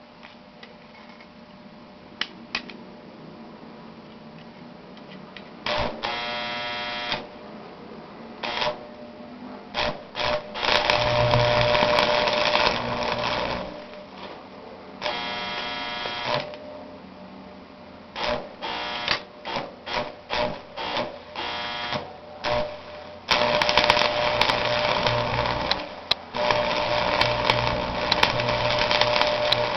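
Small 110-volt Harbor Freight arc welder's arc crackling and buzzing in stops and starts. It is struck in short bursts several times, then held for a long steady run from about three-quarters of the way in.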